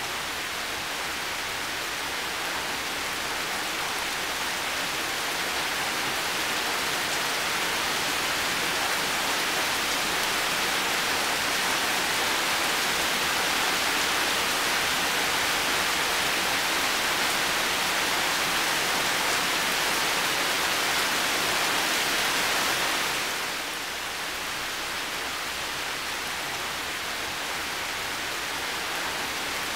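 Heavy rain falling steadily, a dense even hiss that slowly swells and then eases off fairly quickly about 23 seconds in.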